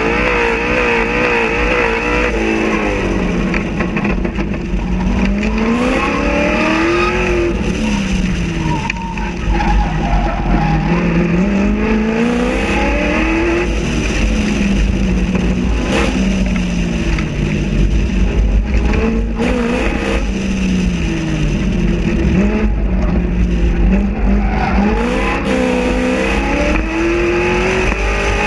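Corvette Z06's V8 under hard acceleration and lifting off, its pitch climbing and falling several times as the car accelerates out of corners and slows for the next, heard from outside the car with wind rumbling on the microphone.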